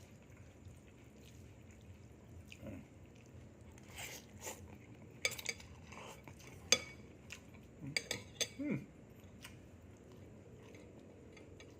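Eating sounds: spoon and dishes clinking several times with chewing in between. The clinks are sharp and scattered, the loudest about two-thirds of the way through.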